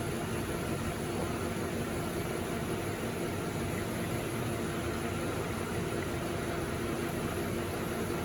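CMA commercial espresso machine's pump running steadily while pulling a double shot during volumetric button programming: an even hiss with a faint steady hum under it.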